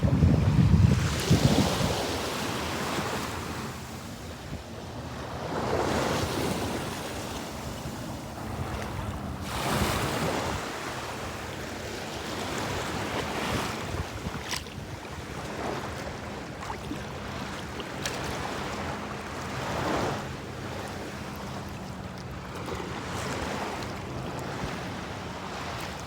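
Ocean surf: waves breaking and washing in, swelling every four to five seconds, with wind buffeting the microphone; the loudest surge comes about a second in.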